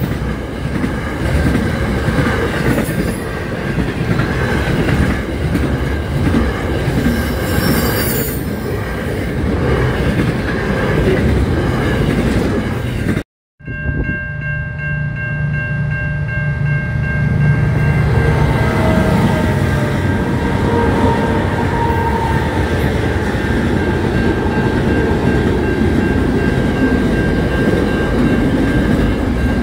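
Container freight trains passing over a level crossing, their wagons' wheels rumbling and clattering on the rails. After a sudden break about a third of the way in, a steady high tone sounds for a few seconds as the next train's rumble builds, and it runs past to the end.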